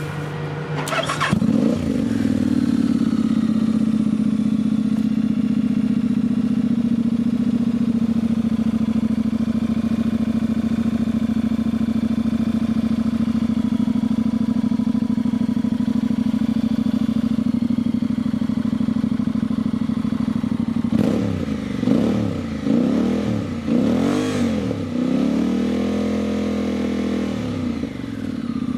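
Honda X-ADV's 745 cc parallel-twin engine through a LeoVince Nero slip-on exhaust with the dB killer removed. It comes up to a steady idle about a second in, then, about two-thirds of the way through, it is revved in several quick throttle blips, one held a little longer.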